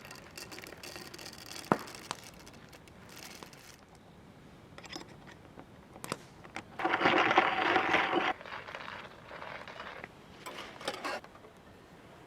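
Small handling sounds of coffee gear: soft crinkling, scrapes and a few sharp clicks, with one louder rushing noise lasting about a second and a half near the middle.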